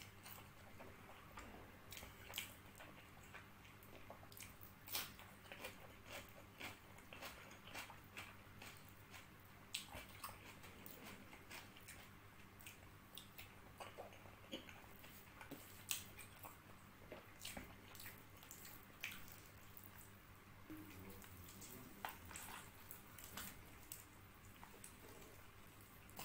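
Close-miked mouth sounds of a person eating spiced whole chicken and rice with his hands: faint chewing and biting, with frequent short wet clicks and smacks at an irregular pace.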